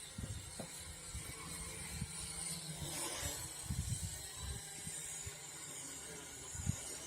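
Wind buffeting the microphone in irregular low gusts, over a steady high hiss.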